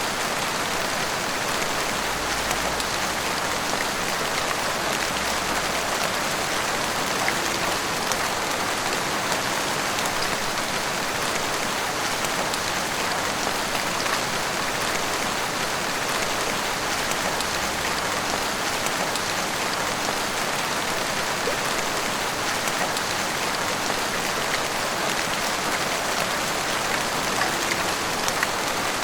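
Heavy rain pouring steadily onto rooftops and the street, an even hiss of rain with many small drop hits.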